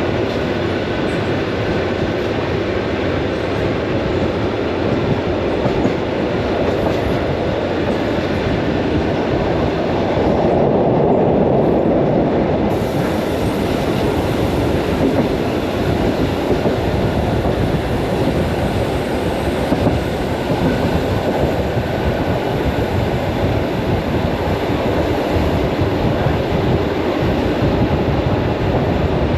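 Commuter electric train running at speed, heard from inside the carriage: a steady rumble of wheels on rails, swelling a little about a third of the way through.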